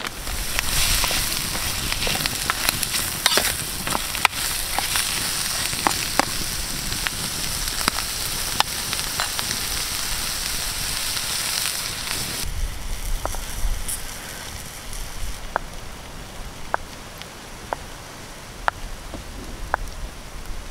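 Mussels sizzling in an aluminium mess tin over a wood fire, a steady hiss with scattered crackling pops. About twelve seconds in this cuts off suddenly, and near the end a knife cutting butter taps on a wooden board about once a second.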